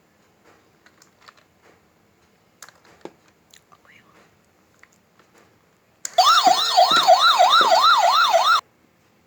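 Toy SWAT helicopter's electronic siren wailing in fast up-and-down sweeps for about two and a half seconds, starting about six seconds in and cutting off abruptly. Before it, only faint clicks and taps.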